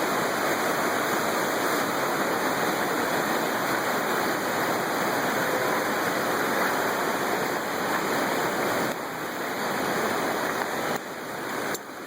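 Rushing floodwater of the swollen Fox River, a steady loud rush of moving water, dropping abruptly in level twice near the end.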